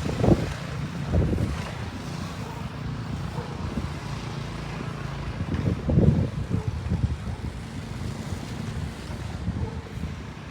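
Wind buffeting the microphone in gusts, strongest near the start, about a second in and about six seconds in, over the steady low hum of a car engine running.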